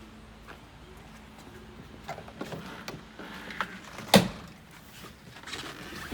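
Light clicks and rustling, then one sharp clunk about four seconds in from a car door being worked as someone gets in behind the wheel.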